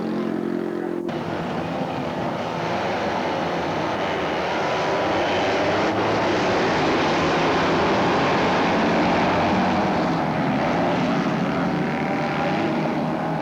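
Racing motorcycle engines running hard at high revs, swelling louder in the middle and easing off toward the end.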